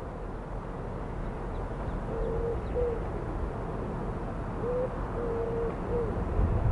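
A bird calling in low hooting notes: two phrases, each a longer note with a short one or two beside it, over a steady low rumble that grows louder near the end.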